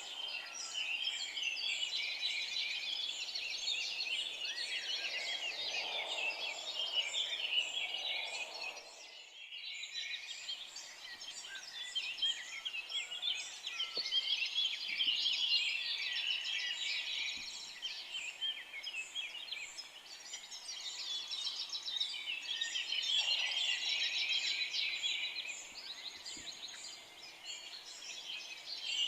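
A dense chorus of many forest birds singing and chirping at once, quick high notes overlapping without pause. The whole chorus dips briefly about nine seconds in.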